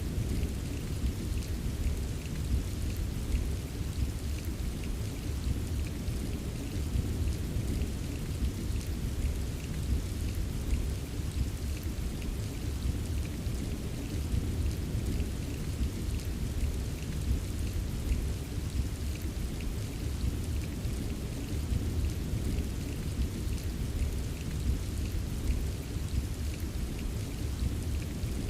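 Steady rain with light scattered drop taps over a deep, even low rumble, the soft distant roll of a thunderstorm.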